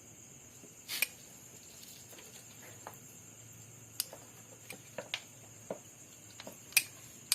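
Scattered light metallic clicks and taps of hand tools and engine parts being handled, irregularly spaced, the sharpest about a second in and near the end, over a faint steady high-pitched hiss.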